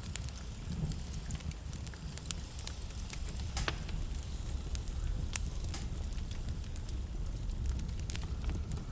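Wood fire burning in a fireplace: irregular crackling and popping of burning logs over a low, steady rumble of the flames, with a few louder pops, one of the loudest about three and a half seconds in.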